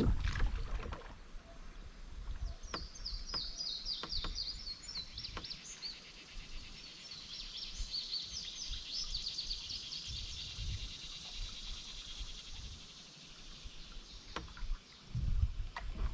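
A songbird singing a long run of rapid, high, sweeping notes over quiet outdoor river ambience, with a few faint knocks. A low rumble starts near the end.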